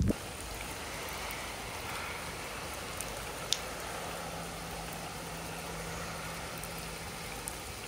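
Steady rain and wind from tropical-storm Nicole, an even hiss with a couple of faint ticks, and a faint low hum partway through.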